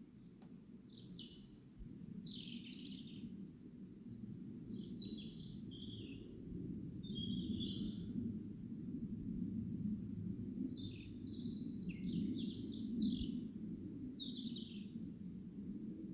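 A songbird singing several short phrases of quick, high notes that often drop in pitch, over a steady low background rumble.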